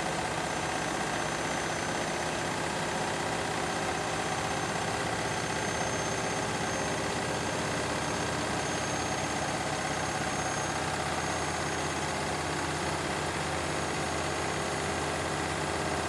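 Beko and Candy washing machines running side by side, a steady motor hum with vibration and a faint high whine.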